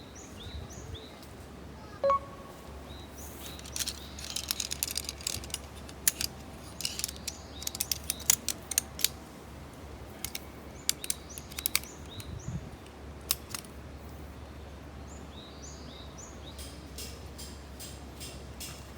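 Irregular sharp clicks and crackles, thickest through the middle, with birds chirping in the background. A single ringing metallic clink about two seconds in.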